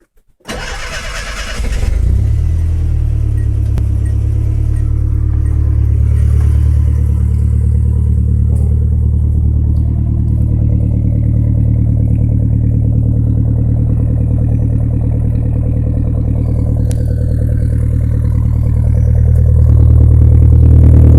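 Car engine cranked on the starter and catching about two seconds in, then idling steadily with a deep exhaust rumble through a newly fitted Magnaflow resonator and Cherry Bomb exhaust tip. The idle rises slightly near the end.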